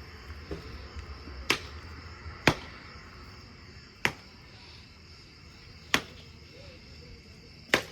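Five sharp cracks, irregularly spaced a second or two apart, each cut off quickly.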